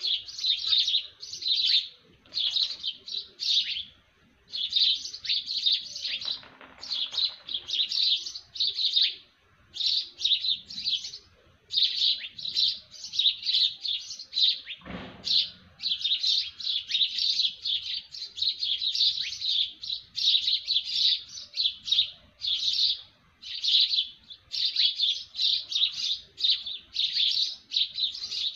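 Small birds chirping rapidly in dense bursts, a second or two each with short pauses between, in an early-morning chorus. A single brief thump about halfway through.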